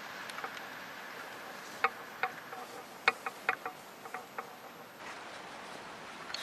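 Insects buzzing over a quiet outdoor background, broken by a quick run of about ten sharp clicks or snaps in the middle.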